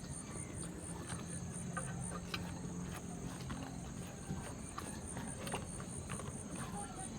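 Soft clicks and smacks of someone chewing and eating, at irregular moments, over a steady high pulsing trill like a cricket or other insect.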